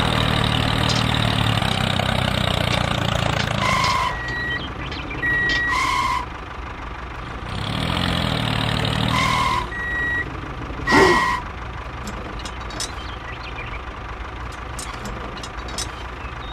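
Miniature tractor's engine running, with short electronic beeps in two alternating pitches sounding several times. The engine fades out about four seconds in and returns for a spell near the middle.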